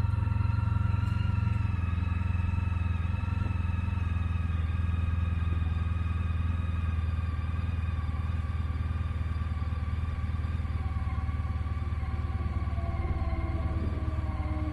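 Honda ST1300's V4 engine idling through cut-down Ducati mufflers as it warms up after a cold start. The idle eases slowly lower as the engine warms.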